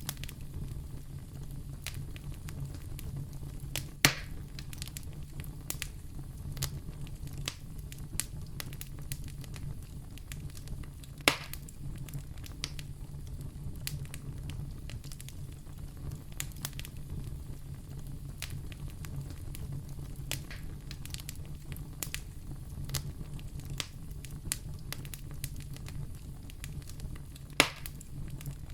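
Wood fire in a fireplace crackling steadily over a low rumble, with many small ticks and three louder sharp pops: one about four seconds in, one about eleven seconds in, and one near the end.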